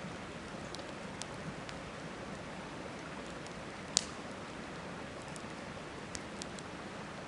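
Wood campfire crackling, with scattered sharp pops and one louder pop about four seconds in, over the steady rush of a river.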